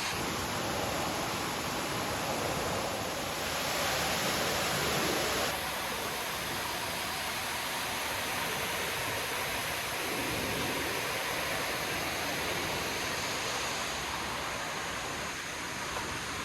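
Steady rushing of falling water from small waterfalls along the gorge, briefly a little louder and brighter about four seconds in.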